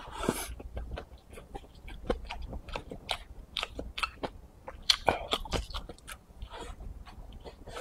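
Close-up chewing and biting of pickled-pepper chicken giblets with rice, with many short crunches and wet clicks from the mouth.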